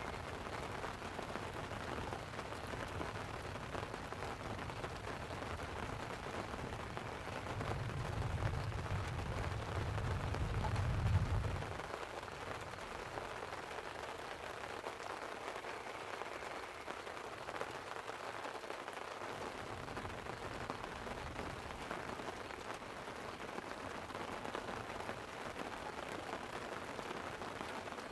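Light rain pattering steadily on a tent. About a quarter of the way in a low thunder rumble builds for a few seconds, then cuts off suddenly.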